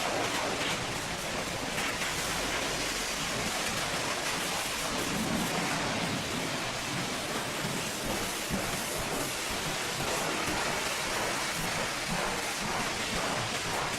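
Steady rush of a high-pressure water spray hitting a truck's body as it is washed down.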